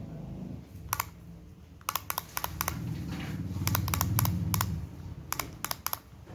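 Sharp, irregular plastic clicks and taps from a small wind-up toy parrot being handled, in quick clusters, over a low handling rumble.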